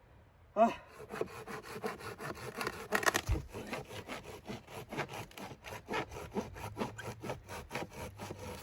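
Hand saw cutting through wood in quick back-and-forth strokes, about four a second, starting about half a second in, with one heavier knock a few seconds in.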